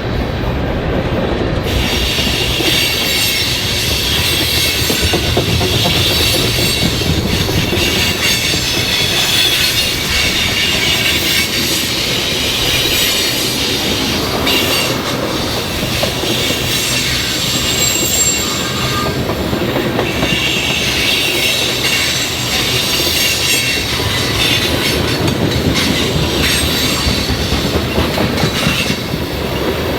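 Railroad cars rolling past close by, wheels clacking over rail joints, with high wheel squeal coming and going.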